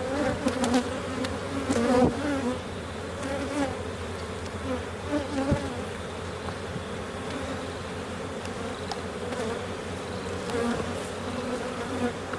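Honey bees buzzing in a steady swarm-like hum over an opened hive during a frame inspection, with a few light knocks from the frames being handled.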